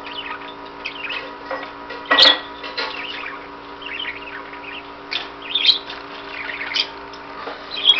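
Budgerigar chattering in quick, high, wavering chirps, with a sharp knock about two seconds in.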